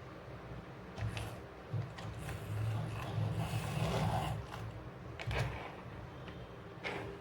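Toy cars and a plastic toy truck being handled: scattered clicks and rubbing, over a low steady hum.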